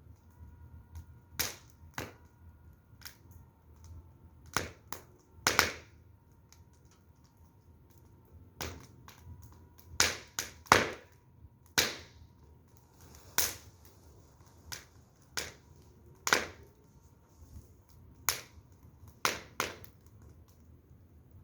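Firewood fire crackling, with irregular sharp pops a second or so apart and a few louder snaps about five and ten seconds in.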